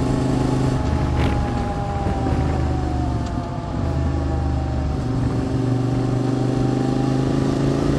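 QJ Motors SVT650X's 650 cc V-twin running through an Arrow Racetech exhaust on the move. The engine note drops gradually over the first few seconds, thins out briefly around the middle, then pulls steadily again.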